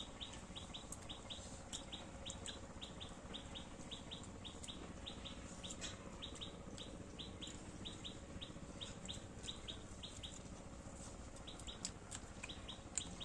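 A small bird chirping steadily, short high notes at about four a second.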